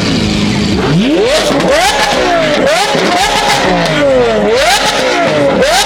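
A performance car's engine revved hard several times in quick succession, its pitch shooting up and dropping back between revs. Sharp exhaust pops and crackles go off along with the revs, as the car shoots flames from its exhaust.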